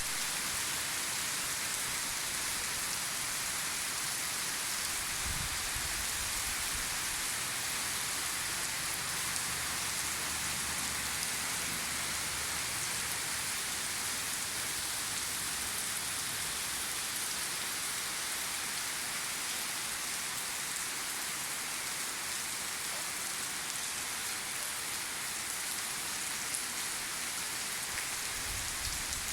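Heavy rain pouring steadily in a rainstorm, a dense even hiss of drops hitting surfaces.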